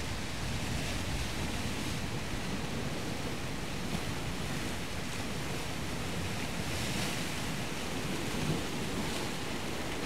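Ocean surf washing steadily, with a louder wash about seven seconds in and wind buffeting the microphone.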